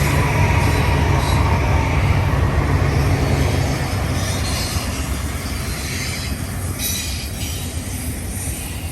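BNSF mixed manifest freight train rolling past on the main track: a deep rumble of locomotives and cars that drops away about four seconds in, with wheels rolling on the rails and brief faint wheel squeals.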